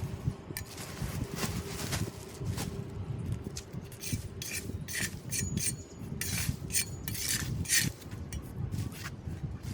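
Debris being scraped and dragged across a storm drain grate in a quick run of short, irregular scraping strokes.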